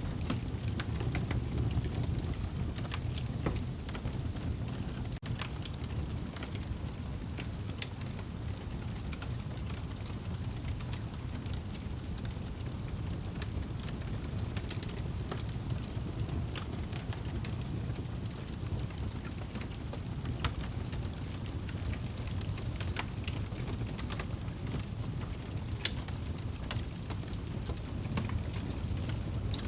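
Wood fire burning in a fireplace: a steady low rumble of flames, with frequent sharp crackles and pops scattered irregularly throughout.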